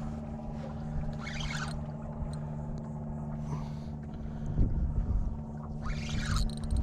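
Small boat on the water during a fish fight: a steady low hum runs throughout, with brief hissing rushes about one second and six seconds in and a couple of low thumps.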